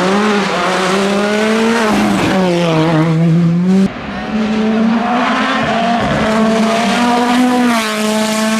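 Rally car engine running hard on a stage, its pitch rising and falling with throttle and gear changes. The note breaks off with a sudden dip in level about four seconds in, then carries on.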